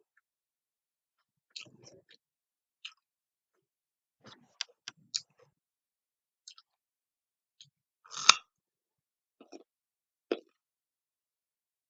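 A person eating: scattered short chewing sounds and sharp clicks, with one louder click about 8 seconds in.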